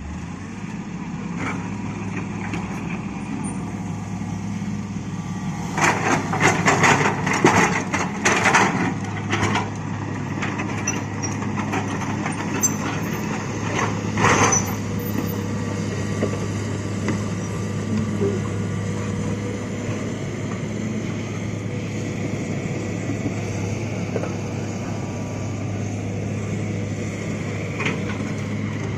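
Heavy diesel construction machinery running steadily at a low hum, with a burst of clattering knocks from about six to ten seconds in and another sharp clatter about fourteen seconds in.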